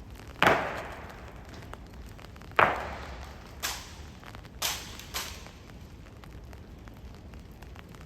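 Sharp, echoing impacts from an honor guard's drill: two loud stamps with a long ring-out, then three lighter ones a second or so apart.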